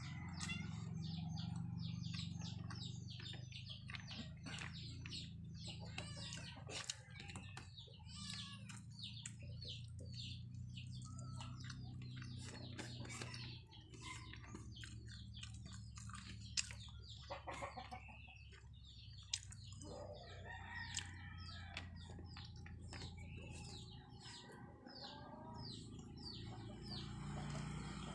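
Close-up eating sounds: chewing and lip smacking as rice and fish are eaten by hand, many short wet clicks one after another over a low steady hum. Chickens cluck in the background.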